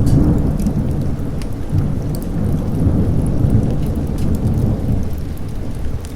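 Thunder rumbling low and long over steady rain, swelling sharply at the start and rolling on without a break.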